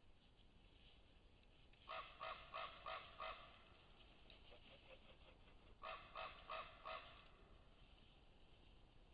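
A bird calling in two runs of four or five short, evenly spaced calls, the first about two seconds in and the second about six seconds in.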